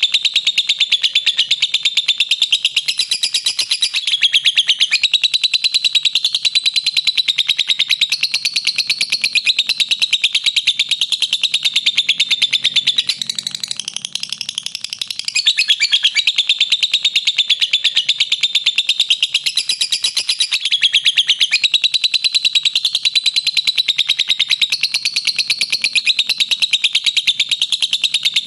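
Lovebird 'ngekek': a long, unbroken run of rapid, shrill chattering notes, easing off briefly about halfway through before picking up again.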